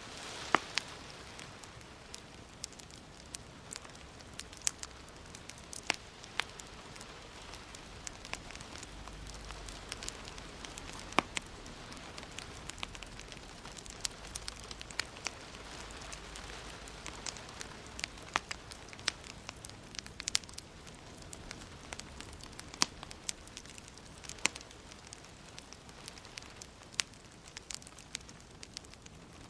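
Wood fire burning in a fireplace, crackling and popping at irregular moments over a steady soft hiss.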